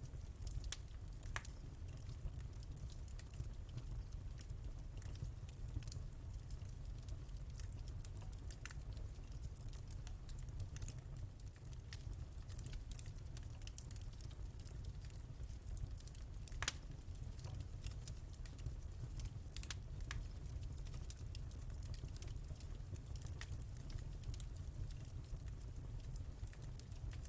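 Wood fire crackling in a fireplace: constant small crackles over a steady low rumble, with a few louder pops.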